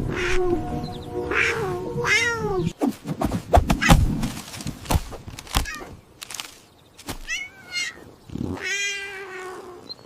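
A kitten meowing several times, each call rising and falling in pitch: three in the first two seconds and two more near the end, the last one long. A run of sharp knocks or taps falls between them, over soft background music.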